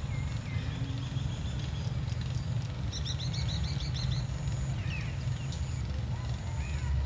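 Small birds chirping over a steady low rumble. About three seconds in, one bird gives a quick run of high chirps lasting about a second.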